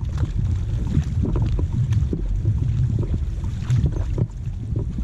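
Four-person racing canoe under way: irregular paddle strokes and water splashing over a heavy low rumble of wind on the microphone.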